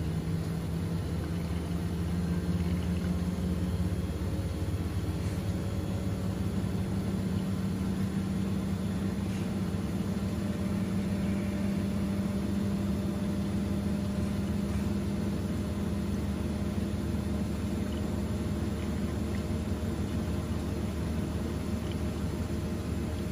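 Washing machine running on a down programme: a steady low motor hum with a tone that rises slightly about two to four seconds in, then holds.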